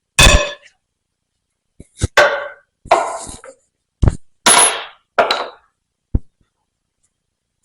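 Sharp metal-on-metal knocks and clangs from a hydraulic vane pump being taken apart: about eight irregular hits over several seconds, some ringing briefly.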